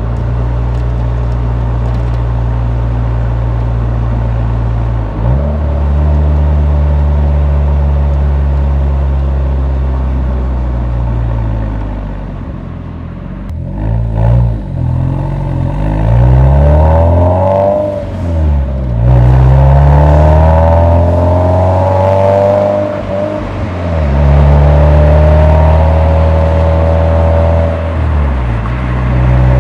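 Exhaust note of a Nissan 180SX recorded at the muffler while driving. It holds a steady drone at first, then from about halfway through the revs rise and fall several times as the car accelerates and changes gear.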